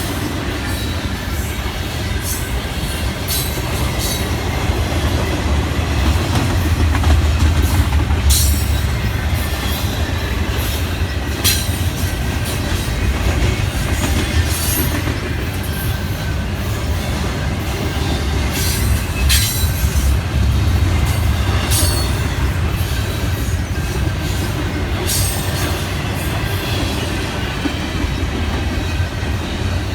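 Train cars rolling past with a steady low rumble, wheels clicking over rail joints and brief squeals of wheel flanges every few seconds.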